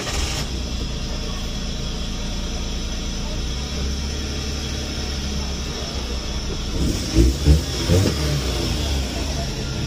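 Suzuki DA64V van's small three-cylinder engine running steadily just after starting, following flood damage in which cylinder one showed low compression. A couple of louder swells come around seven to eight seconds in.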